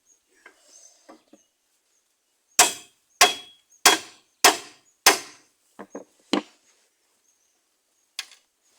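Hammer blows on the steel plate of a pickup's chassis, beating it upward to bend it out of the way: five hard strikes about two-thirds of a second apart, then a few lighter knocks.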